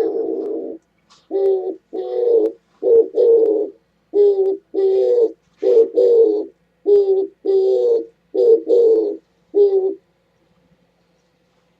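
Oriental turtle dove singing its hoarse, repeated cooing song: low hooting notes in short-then-long pairs, phrase after phrase, stopping about ten seconds in.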